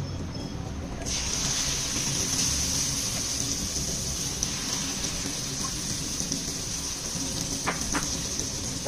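Hot oil sizzling, jumping suddenly loud about a second in as a mass of chopped saom (cha-om) leaves is dropped into the pan, then a steady sizzle. Two light clicks of a metal spoon against the pan come near the end.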